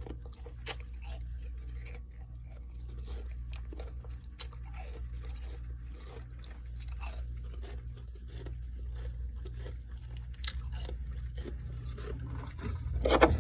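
Close-miked chewing of soft frost: many small, irregular crunches, with a louder burst of crunching near the end. A steady low hum runs underneath.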